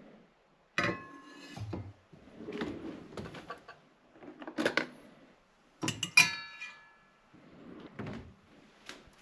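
Kitchenware being handled: a series of sharp knocks and clinks of hard utensils and dishes, several ringing briefly, with rustling between them. The loudest clatter comes about six seconds in.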